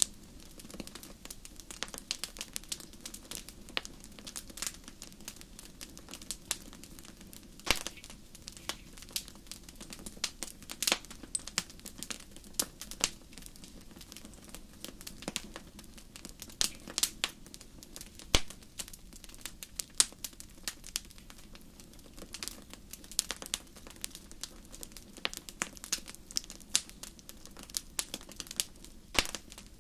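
Wood fire crackling steadily in a fireplace, with frequent irregular sharp pops and snaps over a soft low hiss.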